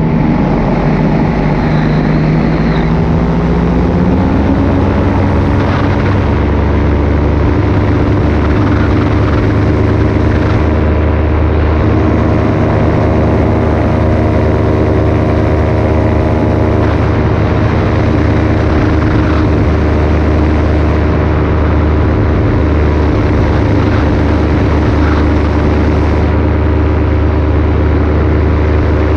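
Paramotor engine and propeller running in flight. The pitch rises over the first few seconds as the throttle opens, then holds steady.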